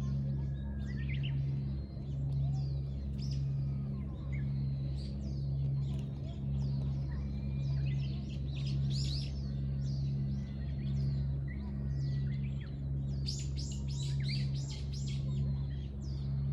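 Several small birds chirping and trilling in overlapping short calls, busiest about halfway through and again near the end, over a steady low hum.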